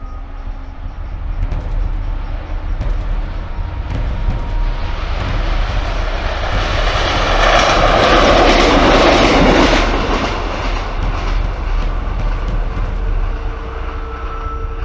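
British Rail Class 153 'Super Sprinter' single-car diesel railcar passing along the track. Its running noise builds up, is loudest about halfway through as the train goes by, then fades away.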